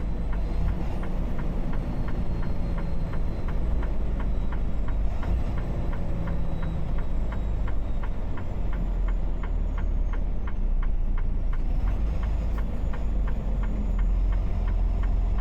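Inside a semi truck's cab: the engine runs with a steady low rumble while the turn signal clicks evenly, about three times a second.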